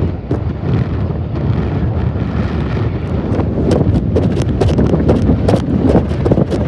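Wind buffeting the microphone: a heavy low rumble with frequent crackling gusts that grow denser in the second half.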